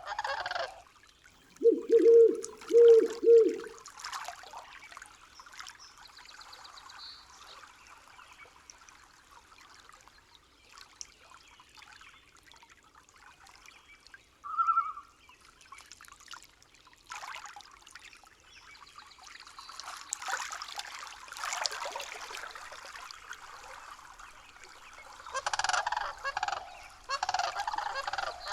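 Forest ambience with birds calling: a run of four low hoot-like calls about two seconds in, a single short higher note around the middle, and busier scratchy calling towards the end.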